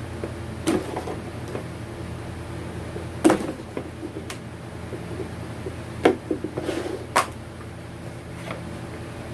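Scattered sharp clicks and knocks of things being handled and set down, about seven in all, the loudest about three seconds in and about six seconds in, over a steady low hum.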